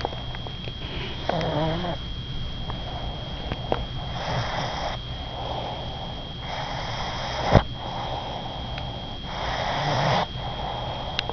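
A sleeping dog snoring, four rasping breaths about every two and a half seconds. A sharp click about seven and a half seconds in is louder than the snores.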